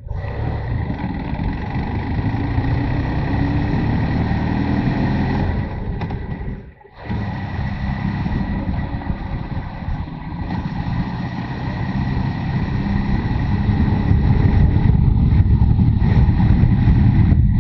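Motorcycle engine running under way, recorded on the bike, with heavy low rumble. The sound drops out briefly about seven seconds in, then grows louder over the last few seconds.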